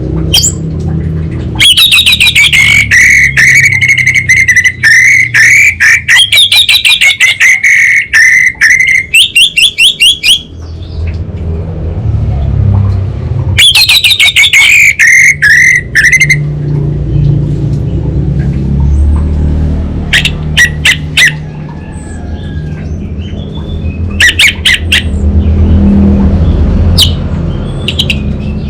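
Orange-headed thrush calling loudly in a very rapid, rattling buzz, the crackling 'short-circuit cable' (kabel konslet) song. It comes as two long runs, the first about nine seconds and the second about three, then a few short bursts, over a steady low rumble.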